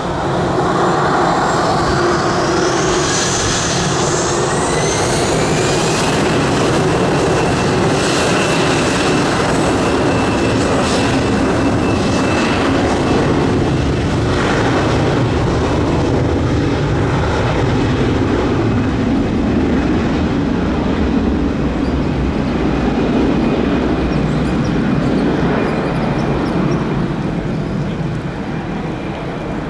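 Jet aircraft engines close by. A whine rises in pitch over the first six seconds, then settles into loud, steady engine noise.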